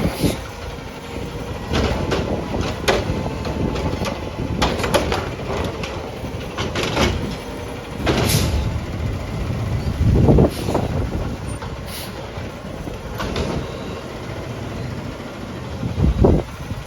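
Garbage truck running, with a series of sharp knocks and clanks over the steady engine noise.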